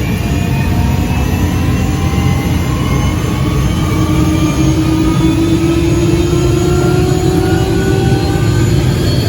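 Robinson R66's Rolls-Royce RR300 turboshaft engine spooling up during start, starter still engaged, with a slowly rising turbine whine over a steady rumble as N1 accelerates and the rotor blades turn.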